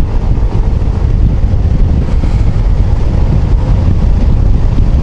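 Heavy wind buffeting on a helmet-mounted microphone while riding a motor scooter, a loud and steady rumble with the road and engine noise underneath.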